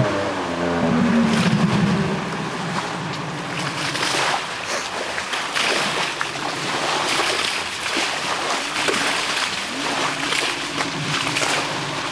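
Two-stroke engine of an Arctic Cat Tigershark Daytona 1000 personal watercraft winding down in pitch over the first couple of seconds, followed by rushing and splashing water, with the engine settling into a steady run again near the end.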